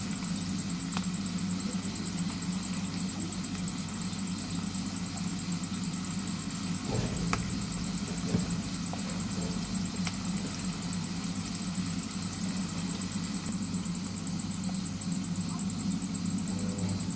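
A steady, low, engine-like hum with a constant hiss above it and a few faint clicks.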